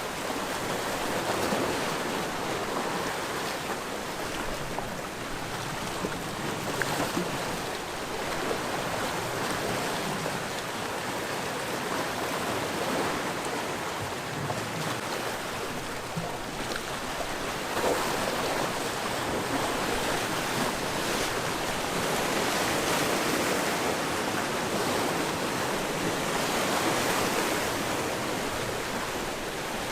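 Sea waves washing onto a rocky shore, a continuous rushing with gentle swells as waves break, one a little louder about 18 seconds in.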